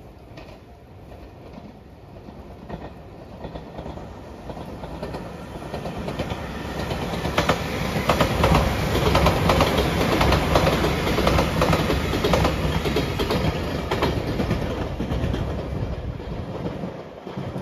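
JR Shikoku 8000 series limited express electric train passing at speed: a rumble that builds over several seconds, is loudest for about five seconds with wheel clacks over the rail joints, then eases off and drops away near the end.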